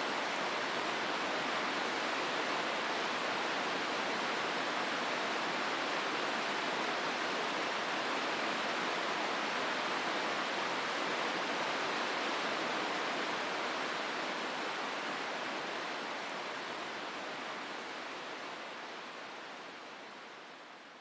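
A river rushing through a rocky gorge: a steady, even water roar. It fades out gradually over the last several seconds.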